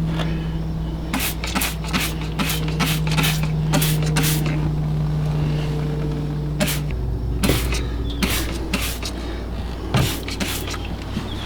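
Repeated short squirts from a hand trigger spray bottle of degreaser, a few tenths of a second apart, over a steady low hum that changes pitch about seven seconds in.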